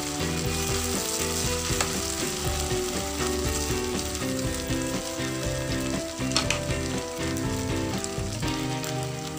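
Corn kernels and pork sizzling in a frying pan as they are stirred with a spatula, with a few sharp scrapes and taps against the pan. Background music plays underneath.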